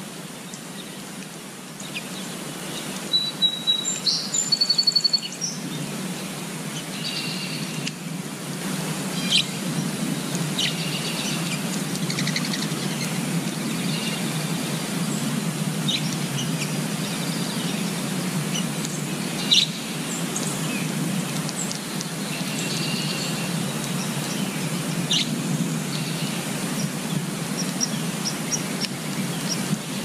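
Wild birds chirping and calling in short high notes. A quick run of notes a few seconds in is the loudest, followed by scattered chirps over a steady background haze.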